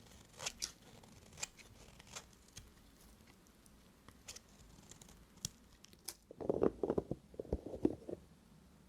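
Knife cutting through dry bar soap: scattered crisp snaps and crackles, then a dense run of louder, deeper crunching from about six and a half seconds in, as the blade breaks through the bar.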